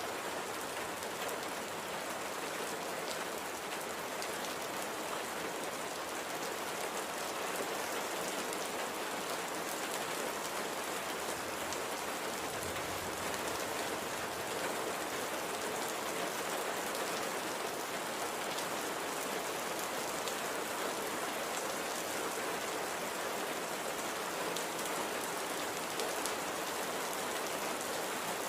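Steady rain falling on a surface: an even hiss with fine, scattered drop patter, without let-up.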